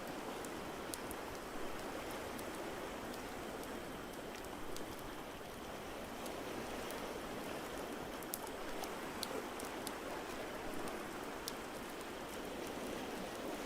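Steady wash of water noise with many light, scattered crackles of a wood fire mixed in.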